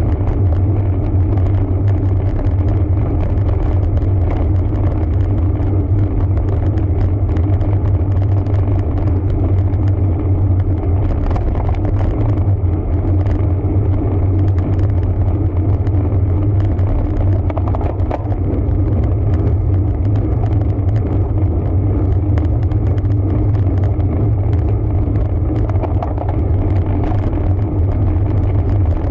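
Steady low rumble of wind and road noise on a bicycle-mounted camera while a road bike is ridden.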